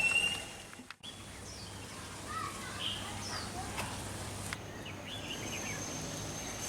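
Outdoor ambience with a low steady hum and scattered short bird chirps.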